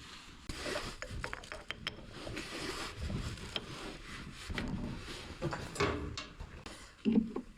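Hand work on a snowmobile's engine parts: a run of scraping and rubbing with scattered light clicks as parts and hardware are handled.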